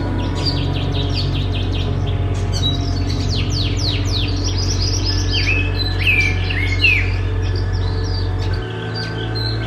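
Songbirds chirping: quick runs of sharp downward-sweeping notes, with a few louder, lower calls in the middle, over a steady low drone that shifts near the end.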